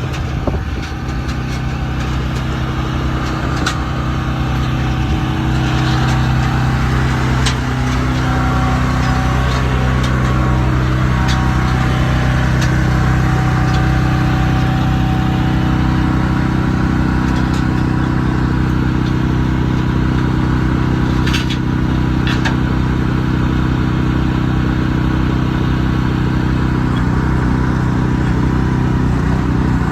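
Large truck engine running, getting a little louder and shifting in pitch over the first several seconds, then holding a steady note, with a few light clicks about two-thirds of the way through.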